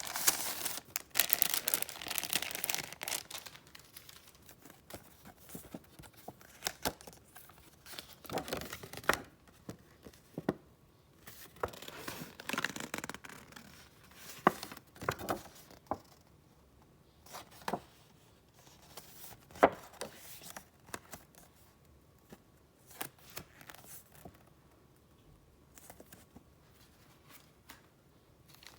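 Paper and wrapping being handled by hand: a dense rustle for the first few seconds, then scattered crinkles and light taps.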